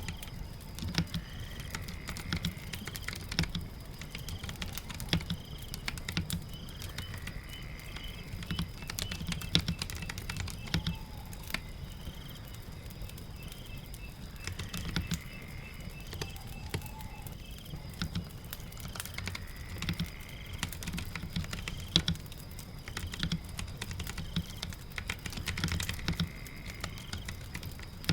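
Typing on a computer keyboard, a steady stream of key clicks with occasional louder keystrokes, over a steady patter of rain. Faint high chirps repeat in the background.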